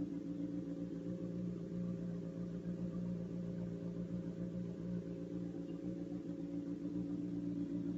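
Honda CBR1000RR inline-four sport bike engine with an SC-Project aftermarket exhaust, running at a steady speed with an even, unchanging note.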